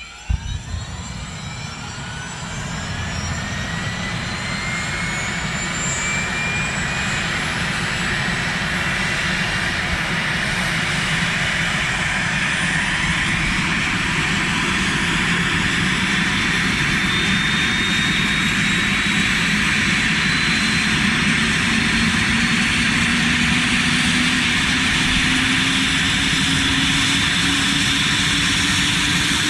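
Helicopter engine starting and spooling up: a whine that rises steadily in pitch and grows louder over about fifteen seconds, then levels off into a steady run. A sharp click comes just after the start.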